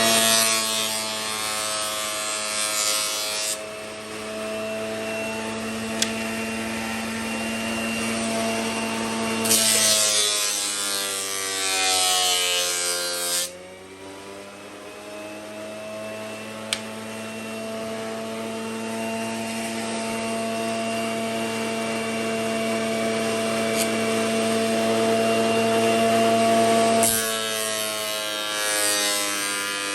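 Small electric power tool running with a steady hum while working bamboo cage parts. It grinds in three rasping spells, at the start, in the middle and near the end, and in the middle spell its pitch sags under the load before it recovers.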